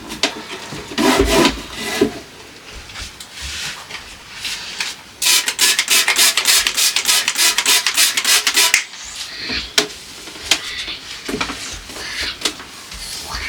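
Scrubbing dried-on sauce off a refrigerator part, in a fast run of back-and-forth strokes, about seven a second, lasting some three and a half seconds midway, with lighter rubbing and knocks of handling before and after.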